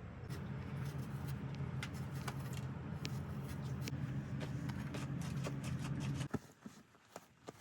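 Electric mixer motor running steadily, then switched off suddenly about six seconds in, followed by a few light clicks and taps.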